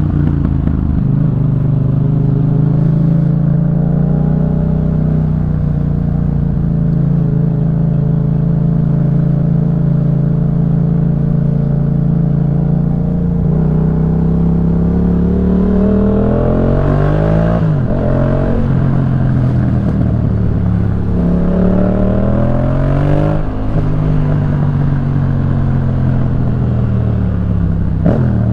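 Yamaha MT-07's 689 cc parallel-twin engine running through a Jeskap K4 full aftermarket exhaust while riding. The revs hold steady for a long stretch, then climb and fall several times in the second half, breaking off sharply twice.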